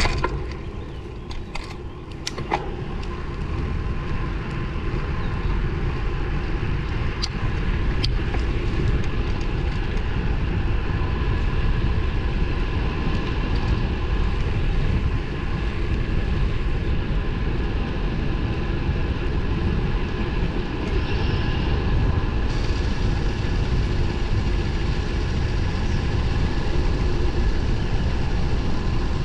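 Steady wind and road noise from riding a road bike with 23 mm tyres, a low rumble with a faint steady hum. A few sharp clicks come in the first couple of seconds.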